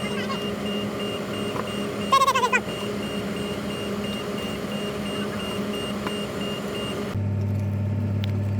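A steady mechanical hum with a thin high whine over it. About two seconds in, a short high call with a wavering pitch. Near the end the sound changes abruptly to a deeper steady drone.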